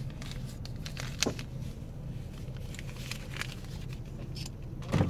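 Dodge Grand Caravan engine idling, a steady low hum heard inside the cabin, with scattered light clicks and ticks. Near the end a louder sound starts as the power window begins to go down.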